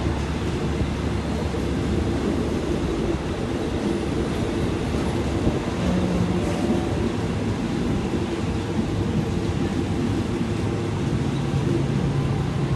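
Steady rumble of a passenger train running, heard from aboard a carriage.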